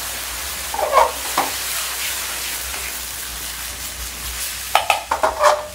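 Fish slices sizzling and bubbling in sauce in a wok. A steel wok ladle scrapes and knocks against the pan about a second in, and again in a quick run of strokes near the end as the dish is stir-fried.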